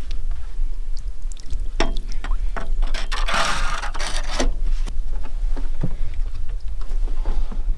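Water sloshing around a dock with scattered knocks and clicks, and a longer splashing rush about three and a half seconds in, over a steady low rumble.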